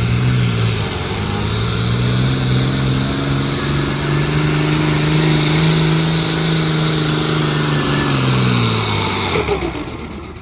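A pulling vehicle's engine running hard at full throttle down the track: its pitch climbs over the first few seconds, holds, then falls away near the end as the run winds down and the sound fades.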